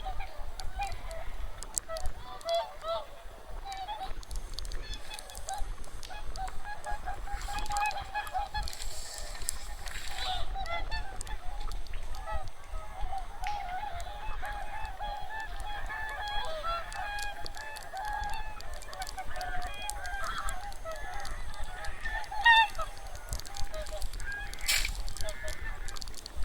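A large flock of migrating wild geese and swans calling together: a dense, continuous chorus of overlapping honks.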